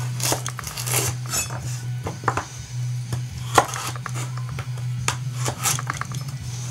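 A kitchen knife blade making a series of quick, irregular metal scrapes and clinks, about one to two a second, over a steady low hum.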